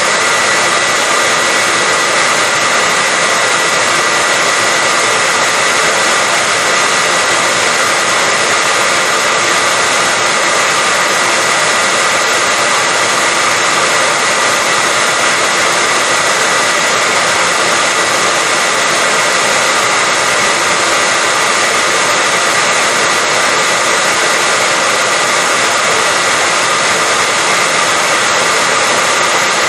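Hair dryer running steadily: an even, unbroken rushing blow with a faint high whine held on one pitch.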